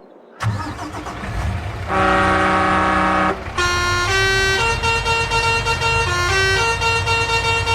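Cartoon truck sound effects: a low engine rumble, then a horn blast about two seconds in lasting over a second. After it comes a tooting tune of horn notes stepping up and down about twice a second.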